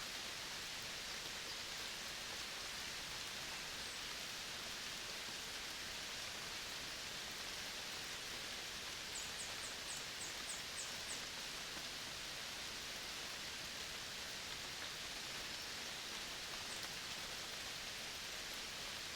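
Tropical forest ambience: a steady high hiss fills the air, and a little after halfway a quick run of about seven high, thin chirps sounds briefly.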